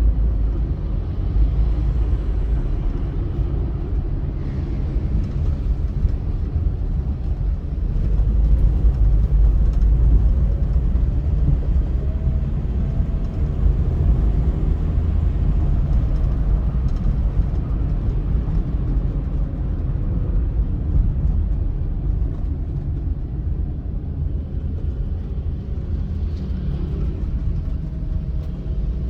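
Car driving at speed on a highway: a steady low rumble of road and engine noise. Faint rising engine tones come through about halfway and again near the end.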